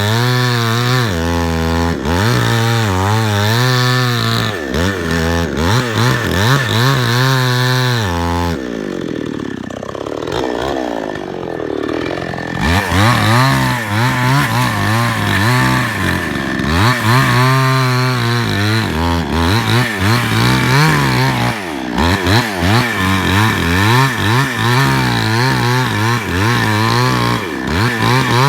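Two-stroke chainsaw revving and cutting, its engine pitch repeatedly rising and falling under the throttle. About nine seconds in it eases off and drops in pitch for a few seconds, then revs back up.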